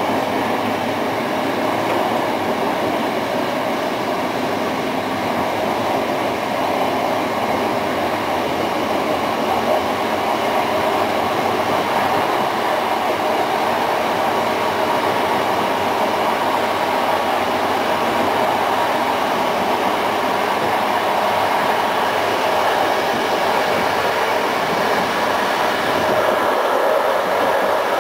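Passenger train running along the line, heard on board: a steady rumble and rush of the carriage wheels on the track, with no distinct clicks or squeals.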